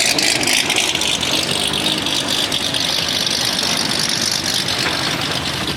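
Car engine running steadily, with a dense wash of background noise.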